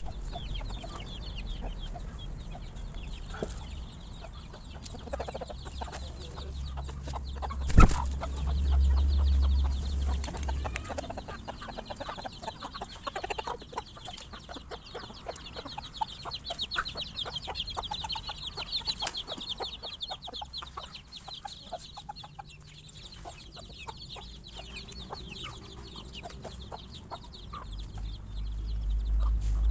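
A flock of chickens clucking as they feed. A single sharp bang about eight seconds in, then a low rumble for a couple of seconds.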